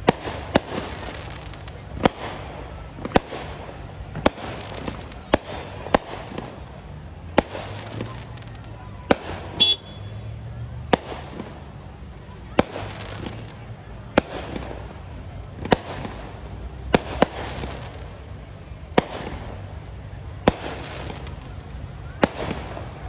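Aerial fireworks shells bursting overhead in a steady string of sharp bangs, about one a second, with a quick cluster of bangs near the middle.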